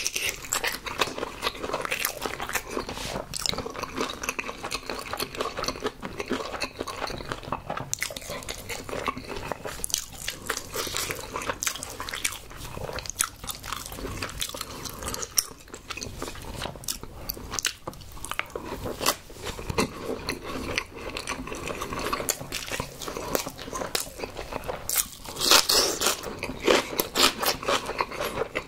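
Close-miked eating sounds: a person chewing and biting a mouthful of rice and marinated seafood, a dense run of wet mouth clicks and crunches, with a louder cluster of bites near the end.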